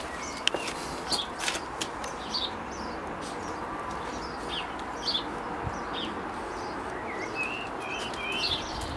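Small birds chirping outdoors: short high calls every second or so, with a quicker run of chirps near the end, over a steady background hiss. A few light clicks sound in the first second and a half.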